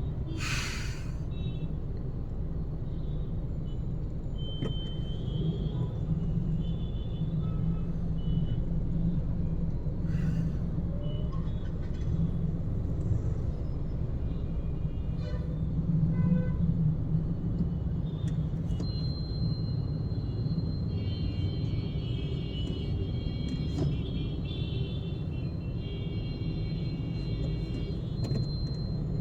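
Steady low rumble of a car driving in rush-hour city traffic, with other vehicles' horns sounding now and then and more often near the end, and a short hiss about half a second in.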